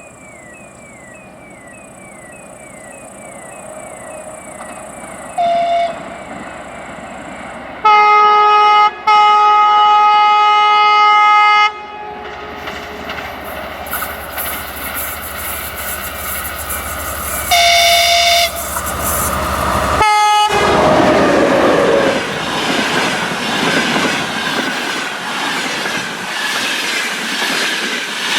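TEP70BS diesel-electric passenger locomotive approaching with its engine drone building, sounding its multi-note horn: a short blast, then a long blast broken briefly near the start, then another short blast. About 20 seconds in it passes close by with a loud rush, its engine pitch dropping. The train's wheels then clatter over the rail joints.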